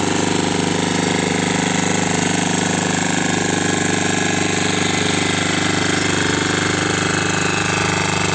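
Single-cylinder engine from an old Royal Enfield Bullet motorcycle, fitted to a small walk-behind tiller, running steadily with a rapid, even beat.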